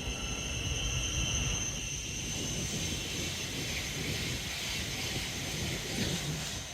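Train passing at speed: a low rumble of wheels on rail under a high steady whine that fades after about two seconds, giving way to a rushing hiss.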